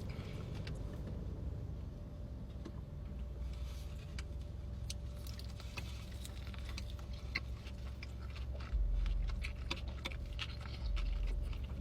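Close-up chewing of a burger: many small irregular wet mouth clicks over a steady low hum, with a few louder low rumbles in the second half.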